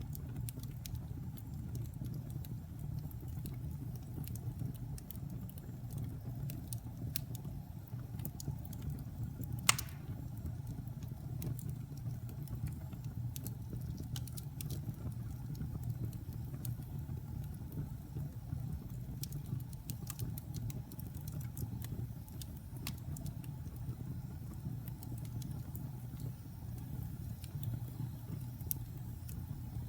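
Wood fire burning in a fireplace: a steady low rumble with scattered crackles and one loud sharp pop a little under ten seconds in.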